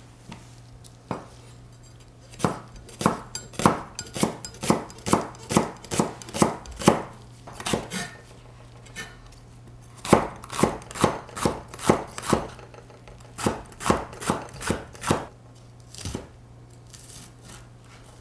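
Kitchen knife chopping on a cutting board, in three runs of quick, even strokes, about two to three a second, with short pauses between runs.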